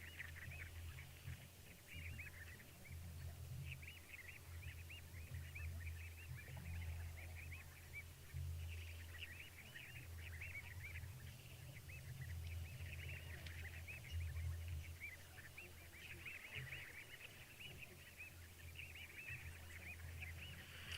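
A dense chorus of many short, high chirping calls from small animals at a waterhole, overlapping several to the second and waxing and waning, over a steady low hum.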